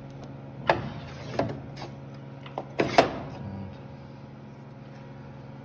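Hand lever grease gun being pumped into a linear-guide carriage's grease fitting: a few sharp metallic clicks and clacks from the lever and gun, the loudest about a second in and again about three seconds in, over a steady low hum.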